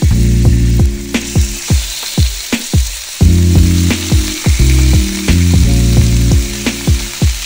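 Raw chicken pieces sizzling in hot oil in a stainless steel frying pan as more pieces are laid in, the sizzle growing fuller about a second in. Background music plays underneath.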